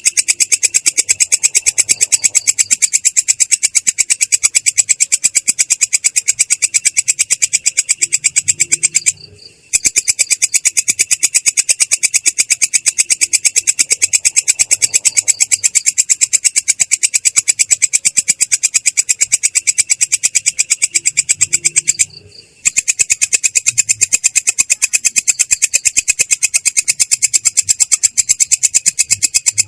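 Belalang kecek insect calling in a continuous rolling trill: a loud, rapid, even train of harsh, clear, high pulses. It breaks off twice for about half a second, roughly a third and three quarters of the way through.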